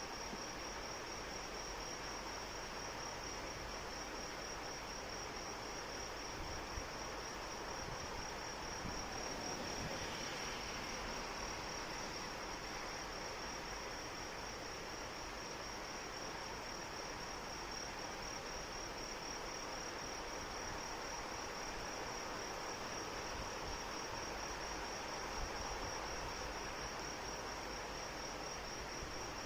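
Steady rain with crickets chirping continuously in a high, rapidly pulsing trill.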